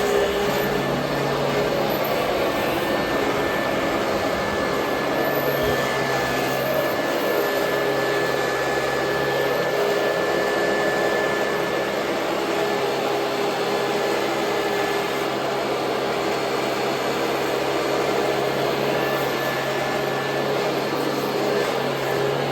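Royal Model 2008 upright vacuum cleaner running steadily: the rush of air with a steady motor hum and a thin high whine.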